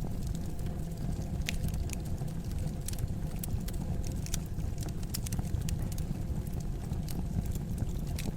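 Wood fire burning in a fireplace: a steady low rumble of the flames with irregular sharp crackles and pops from the logs, several a second.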